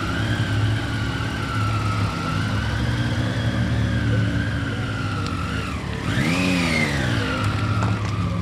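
Car engine idling steadily, revved once about six seconds in, the pitch rising and falling back within a second.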